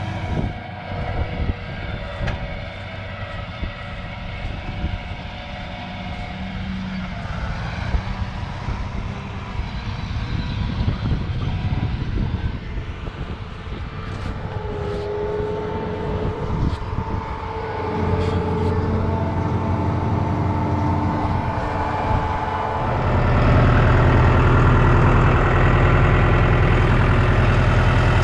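Tractor diesel engine running steadily while moving a corn planter, with a few knocks midway. It gets louder about 18 seconds in and louder again about 23 seconds in.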